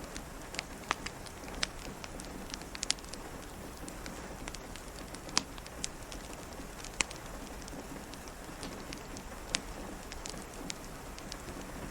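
Steady patter of rain on a window, with scattered sharp pops and crackles of a wood fire in a fireplace, a couple of them louder than the rest.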